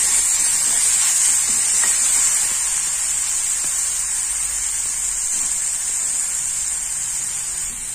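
Chopped onion and tomato frying in oil in a kadhai while a spoon stirs them: a steady, high sizzle that eases a little toward the end.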